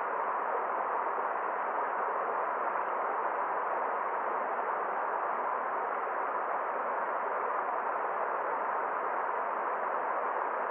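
Forest stream water flowing in a steady, even rush, without distinct splashes or changes.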